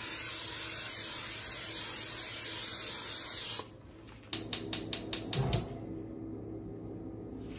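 Olive oil cooking spray being sprayed from an aerosol can in one continuous hiss of about three and a half seconds. Half a second after it stops comes a quick run of about eight short, sharp sounds, followed by a faint low steady hum.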